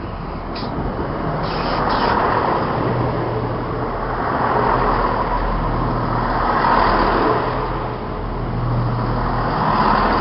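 Chiltern Railways Class 168 diesel multiple unit running past: a continuous rumble of wheels and diesel engine with a low hum, growing louder and easing off several times as the coaches go by.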